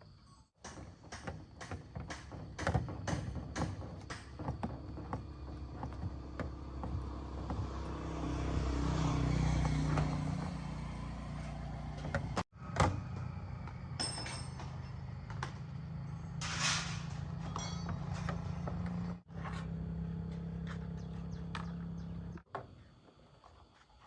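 Knocks and clicks of parts being handled, then a steady low machine hum with a hiss that carries on for most of the rest, broken off abruptly twice.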